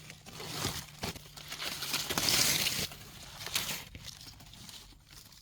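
Dry debris, such as leaf litter, rustling and crackling in irregular bursts as it is moved and turned over by hand. The loudest burst comes about two seconds in. A faint steady low hum runs underneath.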